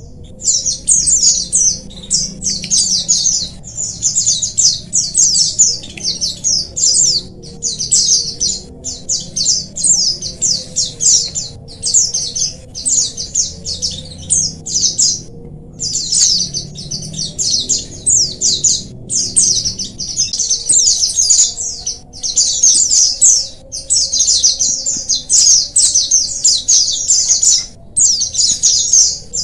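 A flock of white-eyes (pleci) chirping and twittering together in quick, high-pitched runs of notes that overlap almost without a break, with a few brief pauses.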